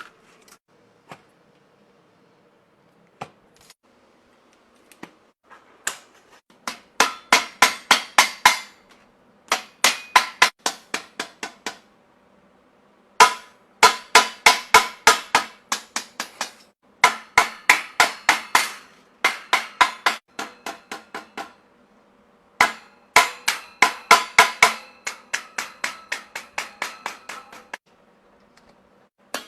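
A hammer striking painted sheet metal in quick runs of five or six strokes a second, each stroke ringing metallically, as the metal work is shaped by hand. There are about five runs, with short pauses between them.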